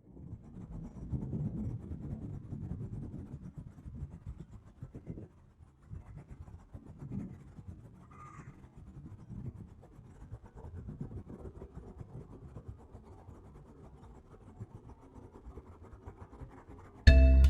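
Low, uneven rumbling outdoor noise with scratchy rustles, and one short faint chirp about eight seconds in.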